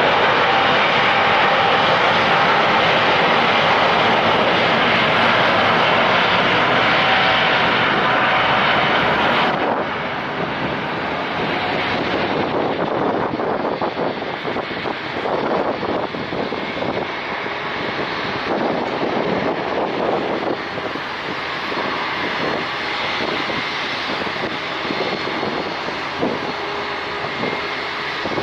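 Airliner engines at takeoff thrust, a loud steady roar with a faint whine in it. About a third of the way in the sound drops abruptly to a quieter, rougher roar, broken by wind buffeting the microphone.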